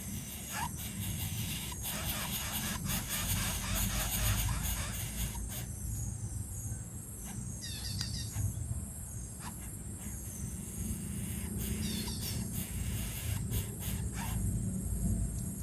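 Outdoor ambience: a steady high insect drone, like crickets, with a low rumble underneath. A bird gives short, falling chirps a couple of times.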